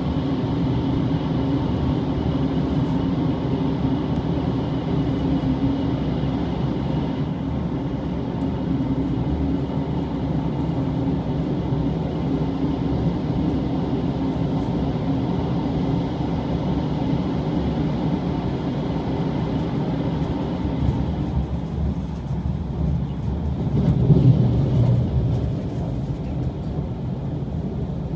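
Electric express train running at speed, heard from inside the passenger car: a steady rumble and hum of wheels on rail, with a brief louder swell about 24 seconds in.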